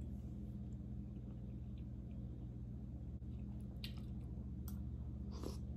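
Soft chewing and eating sounds of a person eating soup with a spoon, with a few faint short clicks in the second half, over a steady low hum.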